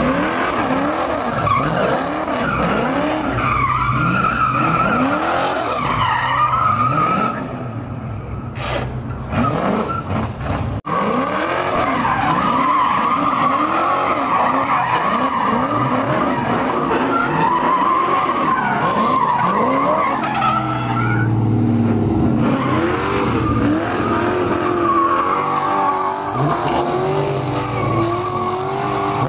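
Car doing sideshow donuts: tires squealing in a wavering screech while the engine revs up and falls back over and over.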